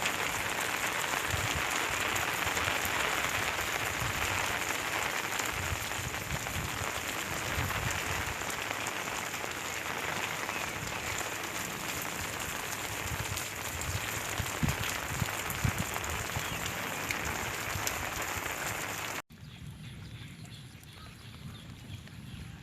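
Steady heavy rain falling, with scattered low thumps. About 19 seconds in it cuts off suddenly to a much quieter background, with a faint high-pitched chirping that repeats at an even pace.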